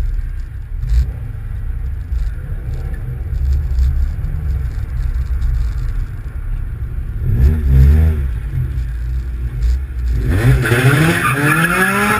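Car road noise with a steady low rumble, and an engine revving up briefly about two-thirds of the way in, then again more loudly with a hiss near the end.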